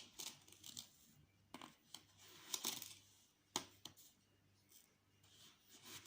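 Tablespoon scooping sugar and tipping it into a dish: a soft grainy rustle and scrape, with a couple of light clicks of the spoon.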